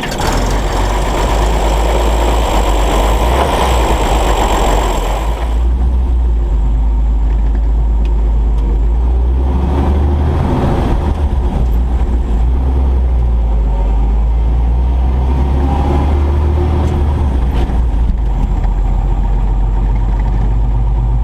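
1930 Chevrolet truck's Stovebolt six-cylinder engine running, louder and fuller for the first five seconds or so, then settling to a steady low drone.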